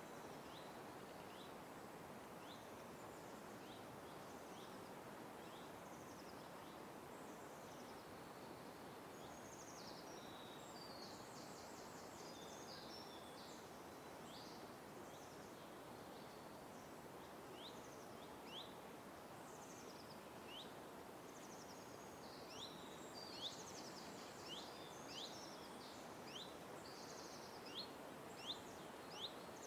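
Small birds chirping over a steady background hum: a short rising chirp repeated about once a second, louder in the last third, with bursts of more complex twittering song.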